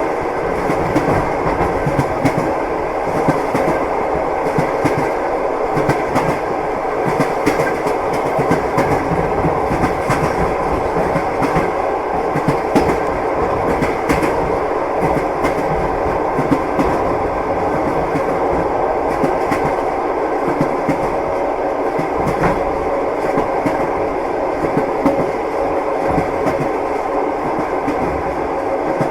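Train wheels running over the rails, a steady rumble with a continual clickety-clack of the wheels striking the rail joints, heard from inside a moving passenger carriage.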